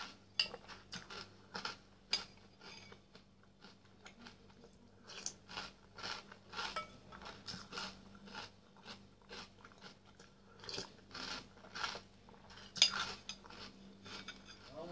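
Close-up crunching and chewing of Nesquik chocolate cereal balls in milk, in a steady run of small crunches, with a metal spoon now and then clinking against the bowl in a few sharper clicks, the loudest near the end.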